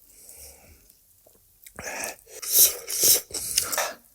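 Close-miked eating sounds: after a quiet start, a run of short, sharp, breathy mouth noises from about two seconds in.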